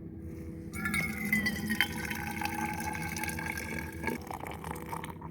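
Hot water being poured from a kettle into a container, a splashing pour with a ringing pitch; it starts about a second in and stops about four seconds in.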